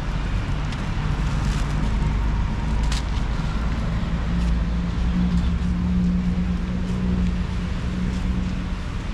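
Road traffic: a motor vehicle's engine runs close by, with a steady drone that grows stronger about halfway through, over a constant low rumble of traffic.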